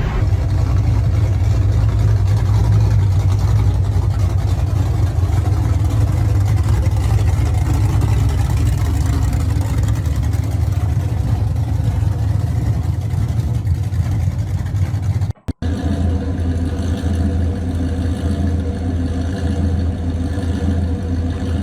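Muscle car engine running with a steady low rumble. The sound cuts out for a moment about fifteen seconds in, then a similar steady engine rumble carries on.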